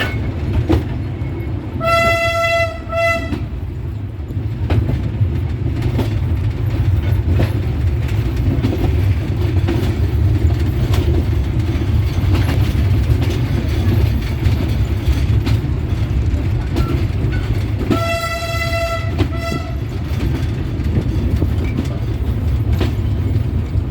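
Train running with a steady low rumble. Its horn sounds twice, about two seconds in and again about eighteen seconds in, each time a long blast followed by a short one.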